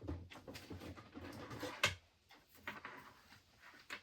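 Items being handled and shifted while rummaging through a box: rustling and light knocks, with one sharper knock about two seconds in.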